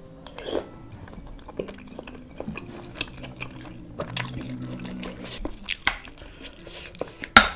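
Close-up mouth sounds of chewing a chewy tapioca meatball in spicy broth, with scattered clicks of a metal spoon and fork working in the bowl. A sharp click near the end is the loudest sound.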